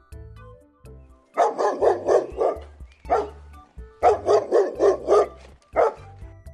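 Dog barking in two quick runs of several barks each, with a single bark after each run, over background music with steady low notes.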